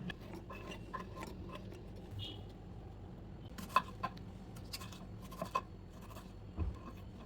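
A few scattered light clicks and taps over a low steady hum, the clearest about four seconds in and again near the end.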